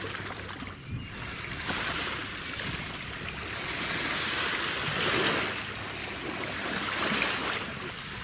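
Japanese Black wagyu sirloin steak sizzling over charcoal, a steady hiss with scattered crackles that swells and eases, loudest about halfway through.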